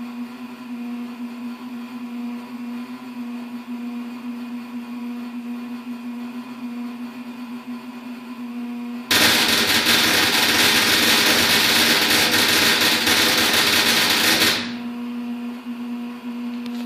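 Oil furnace running with a steady hum, then about nine seconds in a much louder harsh, crackling rush starts suddenly, lasts about five seconds and cuts off, leaving the hum. The loud burst is the unexplained noise the owner calls awful.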